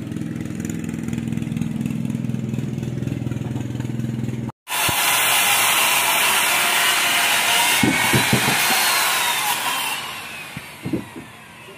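A small engine running steadily, cut off abruptly. Then a loud power tool working wood, its whine rising and then dropping as it winds down, with a few sharp knocks near the end.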